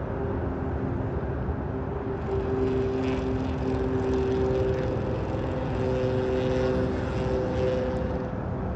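A steady engine drone with several held humming tones that shift a little in pitch over a low rumble.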